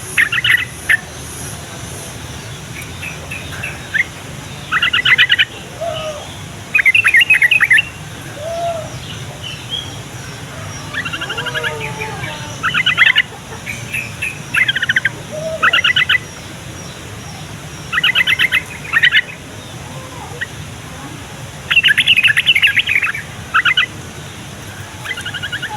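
Yellow-vented bulbul (trucukan) singing: repeated short bursts of fast, bubbly chattering notes, one every second or two, over a low steady hum.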